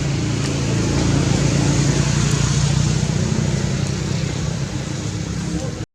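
A motor running steadily with a low hum over a hiss, cutting off suddenly at the end.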